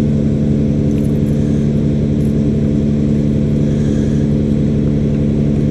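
Steady low motor-like drone that holds an unchanging pitch, with wind rumbling on the microphone.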